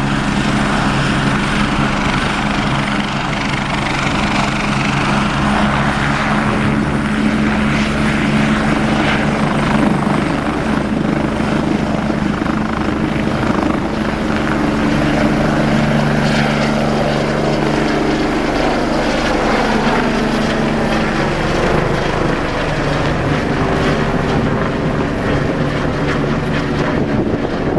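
Air ambulance helicopter running loud and close: a steady rotor drone with a thin high turbine whine over it. The drone's tone shifts about halfway through.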